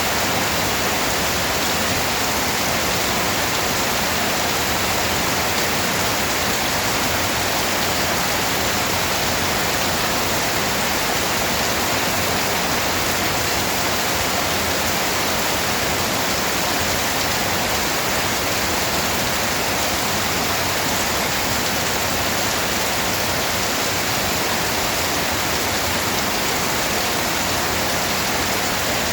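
Steady rain, an even dense hiss with no single drops or thunder standing out.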